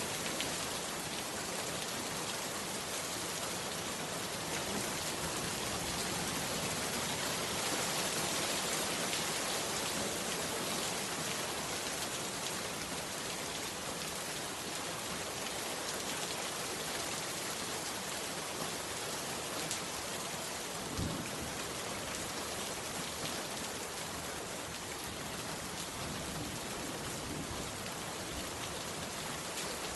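Heavy rain falling steadily on a bamboo hut, with one brief louder tap about two-thirds of the way through.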